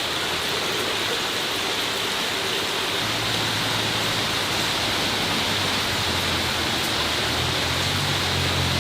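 A steady hiss, with a low hum joining about three seconds in and growing stronger near the end.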